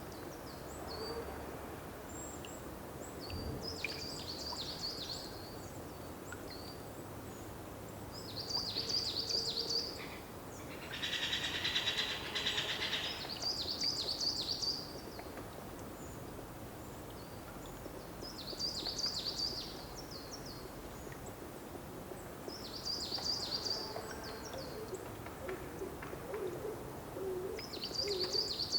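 Wild birds singing outdoors: a songbird repeats a short, high phrase every four to five seconds, with a dense buzzy trill about eleven seconds in. Near the end a low hooting call sounds faintly underneath, over a soft steady background hiss.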